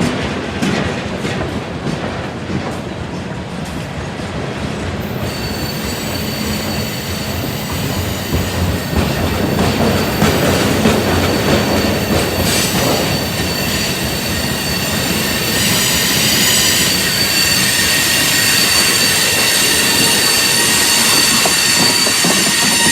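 Freight train cars rolling past, wheels clicking over rail joints. From about five seconds in, a steady high-pitched steel-wheel squeal joins and grows louder: flange squeal from the wheels working through a curve.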